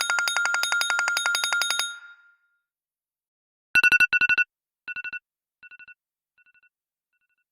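Phone ringtones: a rapid trilling ring of about ten pulses a second that stops about two seconds in, then after a pause a short beeping trill that repeats five times, each fainter than the last, dying away like an echo.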